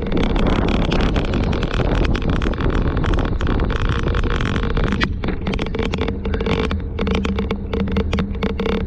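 Strong typhoon wind buffeting the microphone of a cyclist's camera, a dense rushing noise full of crackling gusts. About halfway through a steady low hum joins in under the wind.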